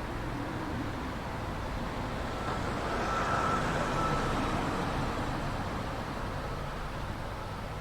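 A vehicle passing, its steady noise swelling to a peak around the middle with a faint whine, then easing off.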